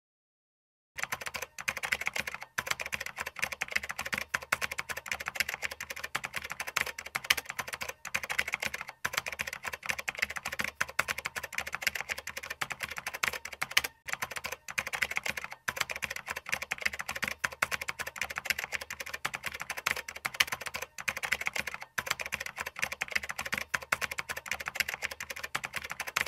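Keyboard typing sound effect: a rapid, continuous clatter of key clicks that starts about a second in and stops abruptly at the end, with a few brief pauses. It goes with on-screen text being typed out letter by letter.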